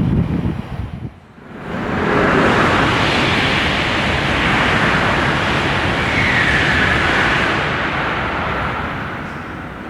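A high-speed train passing through the station at speed: a loud, even rush of air and wheel noise that swells about two seconds in, holds for several seconds, then fades near the end.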